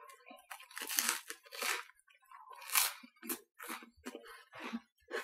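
A person chewing a bite of crusty baguette sandwich: irregular crunching of the crust, about two crunches a second.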